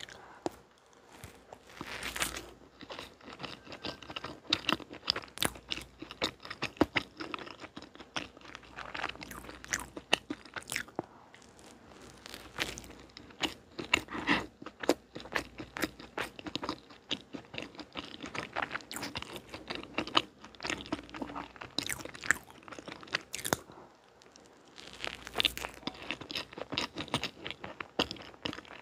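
Close-miked biting and chewing of a soft castella-crumb sweet potato bread, with a steady stream of short clicks and smacks from the mouth.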